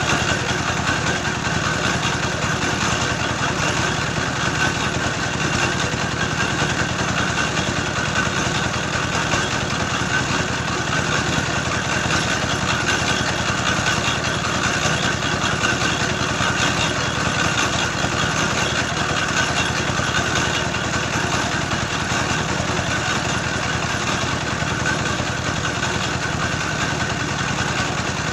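Engine of a soil-grinding machine running steadily, milling earth into clay for red bricks.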